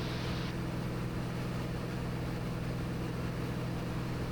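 Steady in-flight cabin drone of a Cirrus SR22T's turbocharged six-cylinder piston engine and propeller, an even low hum. A higher hiss cuts off about half a second in.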